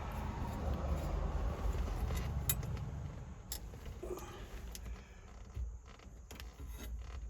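Scattered light clicks and rattles of small metal parts and tools being handled in a truck's steering column. A low rumble under them fades out about three seconds in.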